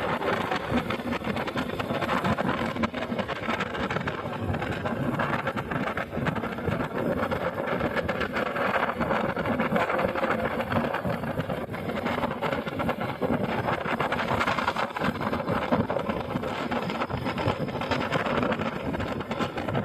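Motorcycle running steadily on the move, its engine blended with continuous road and wind noise.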